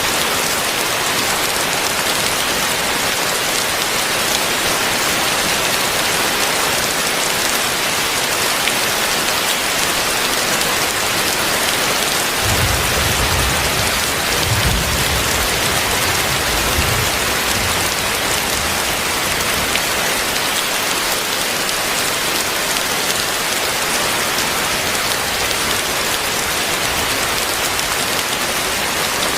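Heavy rain pouring steadily as a dense hiss. Partway through, a low rumble comes in for about four seconds.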